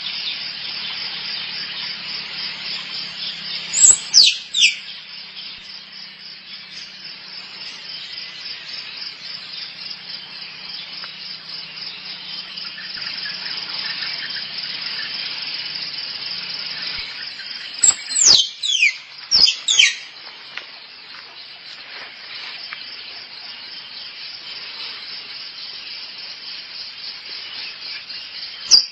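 Squirrel calling to attract a mate: a steady, rapid high chatter throughout, broken by loud squeals that slide sharply down in pitch, two or three in quick succession about four seconds in and again around eighteen to twenty seconds in.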